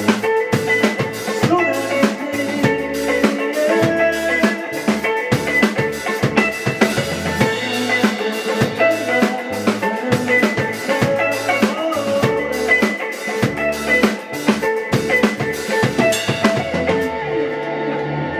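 Indie rock band playing an instrumental passage live, with a full drum kit of kick, snare and cymbals driving under sustained bass and guitar notes. Near the end the drums and cymbals drop out, leaving held low notes ringing.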